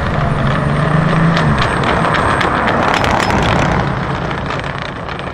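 Air-cooled flat-six of a Kalmar 7-97 Porsche 964 restomod, breathing through its own custom exhaust, accelerating past: the engine note rises in pitch about a second and a half in, then fades away near the end.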